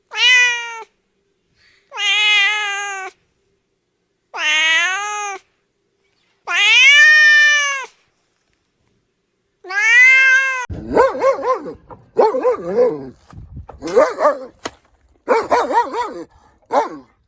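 A cat meowing: five drawn-out meows, each rising and falling in pitch, with pauses between them. Then, about eleven seconds in, a quicker run of shorter, rougher animal calls that goes on to the end.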